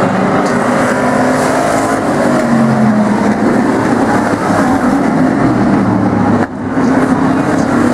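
A field of demo trucks racing on the oval, several engines running loud together with pitches shifting as they lap, and a brief dip in loudness about six and a half seconds in.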